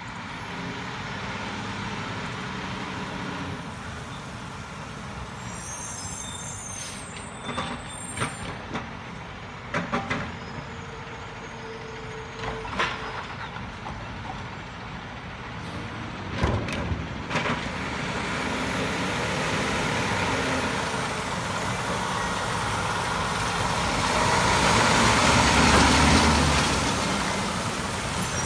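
Garbage truck engine running steadily, with several sharp knocks and clanks through the middle, and the truck noise building louder near the end.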